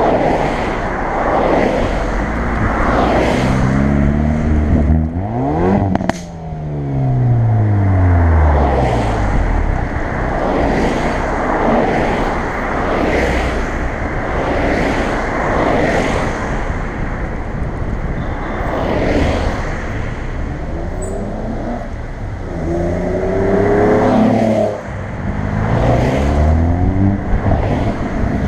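Hyundai i30 N's turbocharged 2.0-litre four-cylinder engine under hard acceleration, its revs climbing steeply. There is a sharp crack about six seconds in, then the revs fall away over a few seconds. The car drives on steadily, and near the end the revs climb again, drop sharply at a shift and rise once more.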